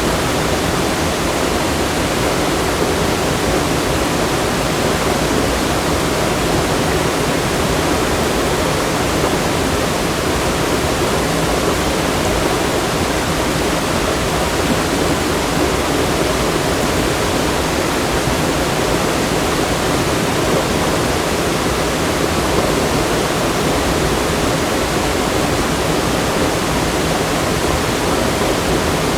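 Fast-flowing water rushing steadily, a dense, even sound with no pauses or changes.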